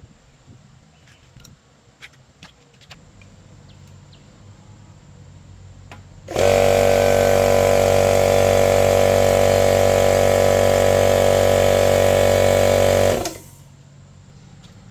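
A power tool's motor runs at a steady pitch for about seven seconds, switching on and off abruptly, after a few faint clicks and taps.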